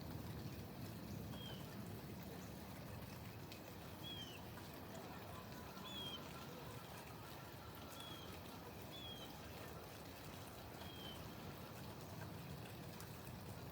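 Faint steady background noise with a small bird's short, high chirps, six in all, spaced about one to two seconds apart.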